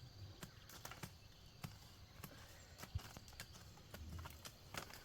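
Scattered light knocks and clicks at irregular spacing, a few a second, over a quiet background.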